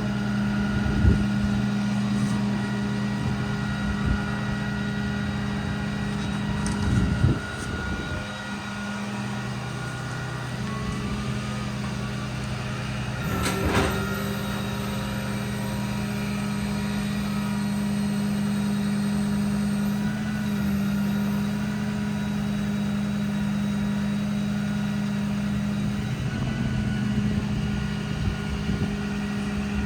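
The truck's Cummins diesel engine running steadily, with a few knocks and a brief burst of noise about halfway through.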